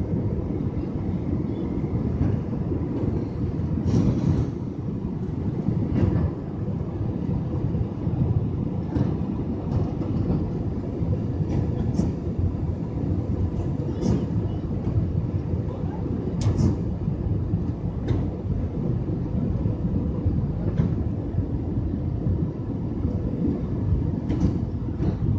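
Cabin noise aboard a JetBlue Airbus A320: a steady low rumble of engines and airflow, with scattered clicks and rattles from the cabin fittings every second or two.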